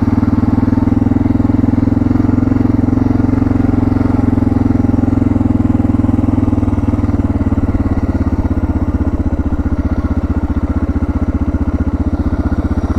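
Suzuki DR650's single-cylinder four-stroke engine running steadily, its firing pulses even throughout.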